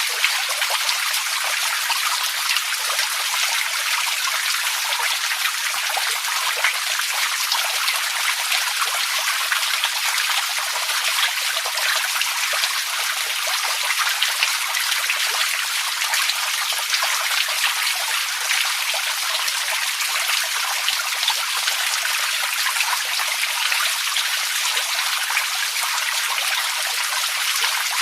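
Running water, trickling and splashing steadily, with many small drops and splashes.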